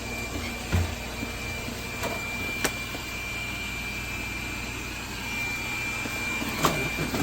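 Robot vacuum cleaner running with a steady whine, with three light knocks along the way.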